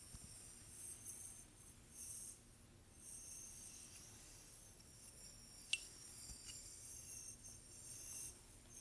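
Faint hair-play sounds: soft, hissy brushing strokes through hair coming and going in short passes, with one sharp click a little over halfway through.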